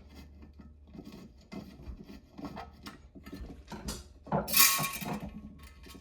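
Light metal clicks and scrapes of a tool working the centre screw out of a Homelite XL2 chainsaw's recoil starter, with a louder metallic rasp lasting under a second about four and a half seconds in.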